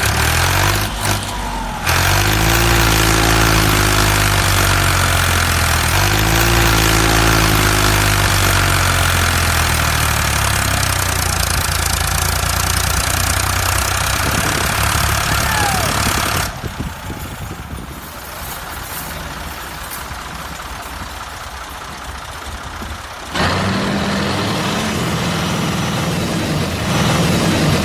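An engine running with a wavering pitch over a steady hiss. The sound drops abruptly about sixteen seconds in and comes back up about seven seconds later.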